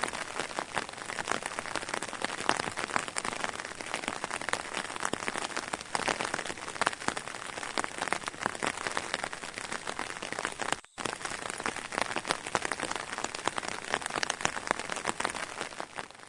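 Steady rain pattering on a surface: a dense, even crackle of countless drops, broken off for an instant about eleven seconds in and fading out at the end.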